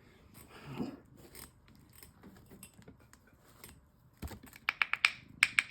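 Small stone specimens being handled: light rustling and small clicks, a low thump about four seconds in, then a quick run of sharp taps near the end.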